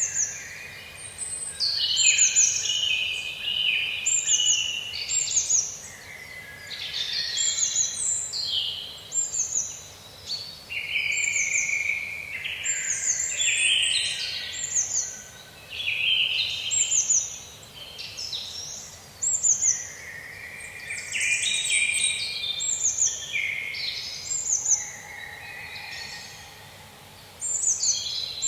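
Several songbirds singing in overlapping phrases, almost without a break, many phrases made of quick falling notes.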